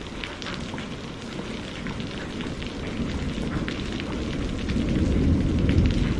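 Steady rainfall with scattered drop ticks, and a low rumble of thunder swelling in the last second or two.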